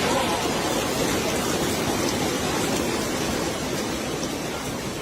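Heavy rain pouring down, a steady dense hiss that eases slightly near the end.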